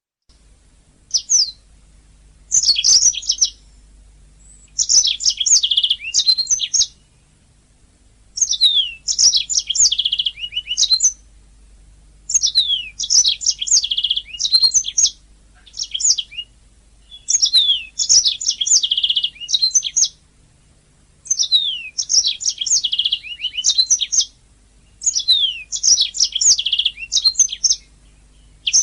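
Domestic canary singing in repeated phrases of about two seconds each, fast high chirps and trills, with short pauses between phrases. A faint steady low hum lies underneath.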